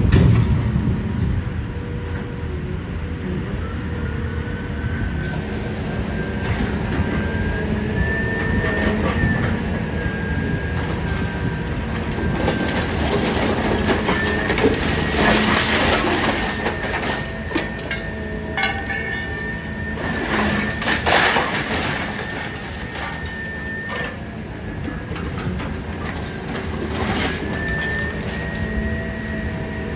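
Idromec T 650 CLS scrap metal shear baler running under load: a steady low drone with a high whine that steps up in pitch and holds. Scrap metal crunches and cracks as it is compressed, loudest a little past halfway.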